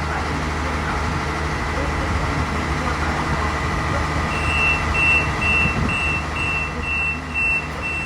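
RENFE class 592 diesel multiple unit's MAN D2866 diesel engines running steadily with a low hum. About halfway through, a rapid high electronic beeping starts, about three beeps a second.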